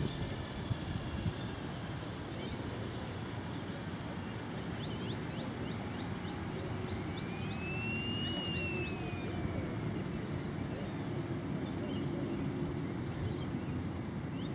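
Wren 44 gas turbine of a radio-control helicopter heard at a distance: a high whine that rises and then falls in pitch about halfway through, over a steady low rumble.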